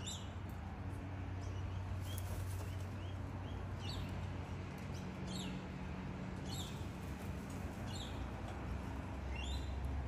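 Faint, short, high bird chirps, each falling in pitch, repeating about once a second over a steady low hum.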